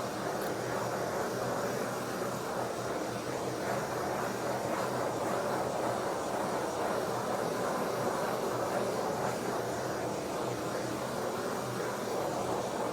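Handheld torch flame burning steadily with a continuous rushing noise, heating a self-adhesive roofing sheet so that it softens and bonds to the roof.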